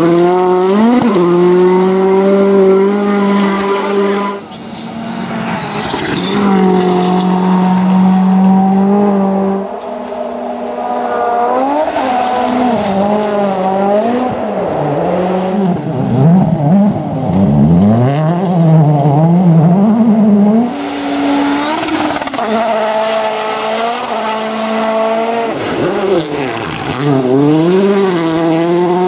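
World Rally Championship cars driven hard, their engines revving, the pitch holding and then climbing and dropping quickly through gear changes and lifts. The sound changes abruptly a few times as one car's pass gives way to another's.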